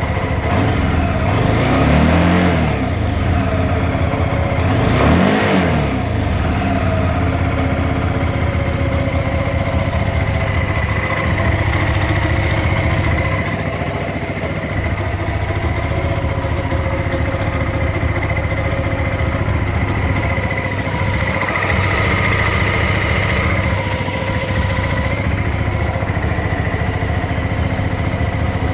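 Hyosung GT650R's 647 cc V-twin engine, blipped twice (the revs rise and fall about two seconds in and again about five seconds in), then idling steadily.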